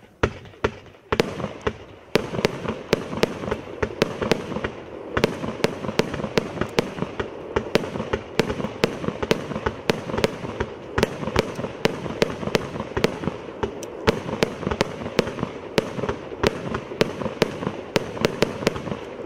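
Evolution Fireworks 'Tropical Storm' firework cake firing. It gives a fast, uneven run of sharp bangs, about two or three a second, over a constant rushing, crackling noise that never drops away.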